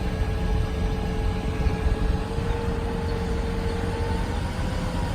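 Cummins 6.7 turbo diesel of a bucket truck running steadily with the PTO engaged, driving the boom hydraulics. A steady whine sits over the engine's rumble and rises slightly in pitch about two seconds in as the boom is worked.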